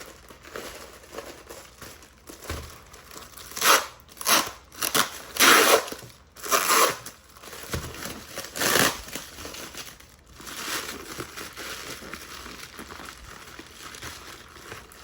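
Packing wrap being crumpled and torn open by hand as a small carved stone bird figurine is unwrapped, in irregular bursts of rustling that are loudest in the middle.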